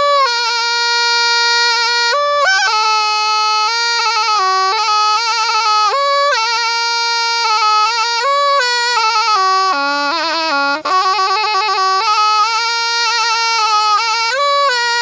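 Thai pi (reed oboe) played solo: one unbroken, wavering melody with quick ornaments, dipping briefly to its low notes about ten seconds in.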